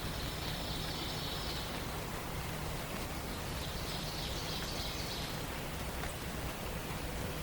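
Forest dawn ambience: a steady outdoor hiss with faint high-pitched bird trills from distant songbirds, one at the start and another about four seconds in, each lasting about a second and a half.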